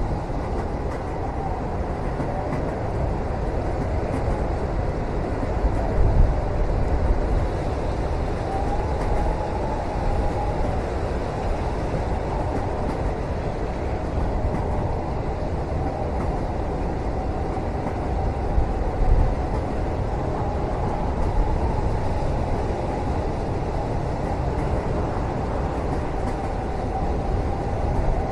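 Steady low rumble of a train running on the rails as heard from inside a passenger cabin, with a faint wavering whine over it and a couple of louder knocks, about 6 and 19 seconds in.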